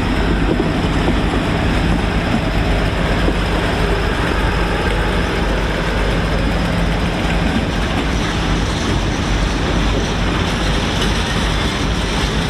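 Colas Rail Class 56 diesel-electric locomotive, with its Ruston-Paxman 16-cylinder engine, running steadily as it draws into the goods loop.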